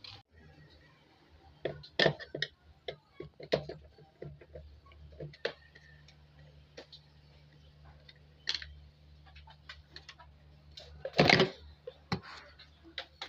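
Irregular clicks and knocks, with a louder clatter about eleven seconds in, over a low steady hum.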